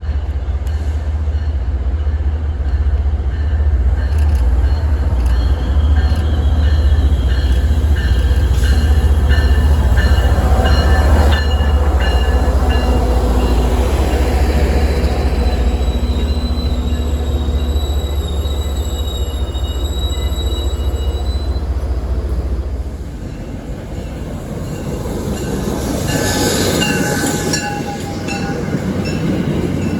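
A train passing close by: a heavy, deep rumble with high, thin squeals from the wheels on the rails. The rumble drops away about three-quarters of the way through.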